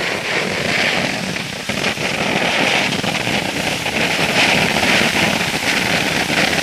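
Firework fountain burning: a steady loud hiss with a dense fine crackle, growing a little louder toward the end.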